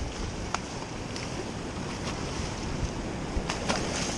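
Ocean surf washing on the beach, with wind buffeting the microphone. A few short, sharp clicks sound over it.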